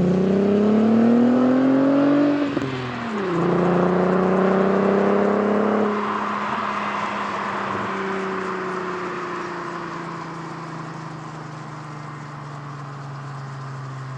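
A VW Jetta's 12-valve VR6 engine through a non-resonated Borla catback exhaust accelerates with rising revs. About two and a half seconds in, the revs drop briefly at a gear change, then climb again more slowly. About six seconds in, the driver lifts off and the revs and loudness fall gradually as the car coasts.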